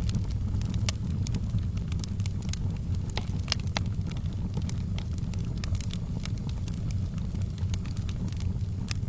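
Wood fire crackling in a fireplace: frequent sharp pops and snaps, irregularly spaced, over a steady low rumble of the burning flames.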